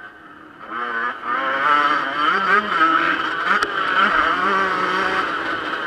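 Yamaha YZ125 two-stroke motocross engine being ridden hard. It is quieter for the first half second or so, then picks up about a second in, its pitch rising and falling repeatedly as the throttle is opened and rolled off.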